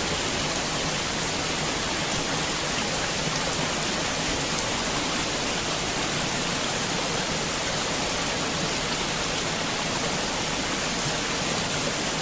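Heavy rain falling steadily, a dense even hiss of drops striking surfaces with many fine individual drop ticks, unchanging throughout.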